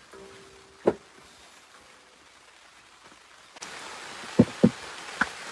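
A single sharp knock, then about three and a half seconds in a steady hiss begins abruptly, with two quick knocks close together and a third just before the end.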